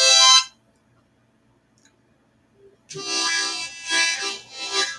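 Hohner harmonica being played: a chord that breaks off about half a second in, a pause of about two seconds, then a phrase of several short chords from about three seconds in.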